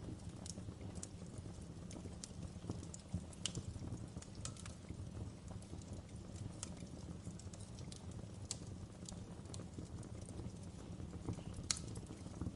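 Wood fire crackling in a fireplace: irregular sharp pops and snaps over a low steady rumble, with one louder pop near the end.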